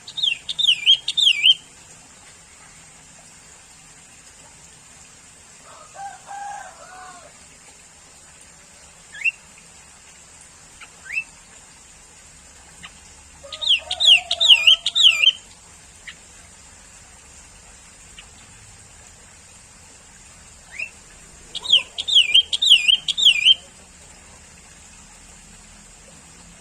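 Sooty-headed bulbul (kutilang) singing: three short bursts of quick, bubbly up-and-down notes, with single short rising chirps between them. A lower, softer call from another bird comes twice, over a steady high hiss.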